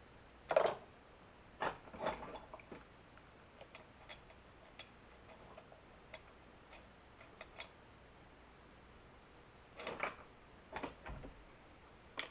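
Intermittent clicks and knocks of tools and small parts being handled during a hands-on chainsaw repair. There is a louder knock about half a second in, a few more around two seconds, faint ticks in between, and another small cluster near the end.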